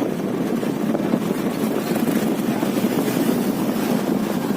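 A vehicle's engine and road noise running steadily while on the move, with wind on the microphone.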